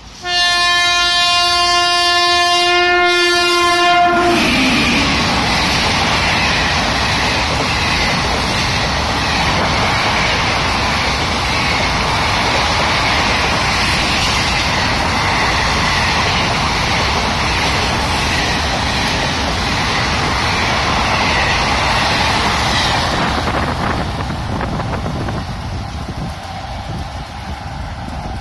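A WAP-5 electric locomotive sounds one long horn blast of about four seconds. The passenger train then runs past at speed in a loud, steady rush of wheels on rail, easing off over the last few seconds.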